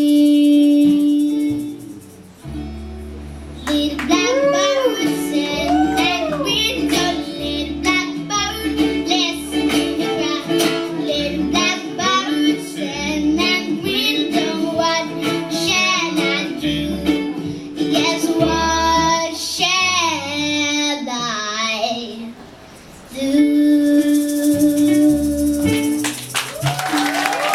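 A young girl singing with strong vibrato over a plucked-string band accompaniment with guitar and bass, with long held notes near the start and again near the end.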